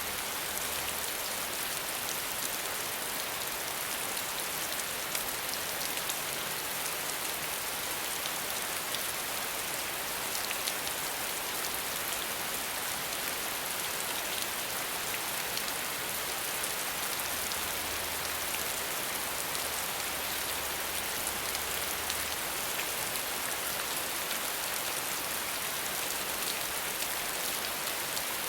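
Steady rain falling without thunder: a dense, even patter of drops.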